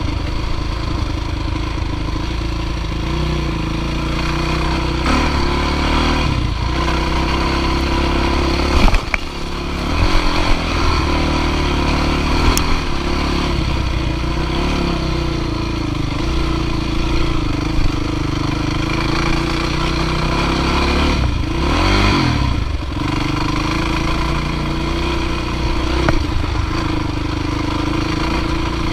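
Dirt bike engine running continuously under load, its revs rising and falling, with a sharp clattering knock about nine seconds in and a quick rev swing near the end.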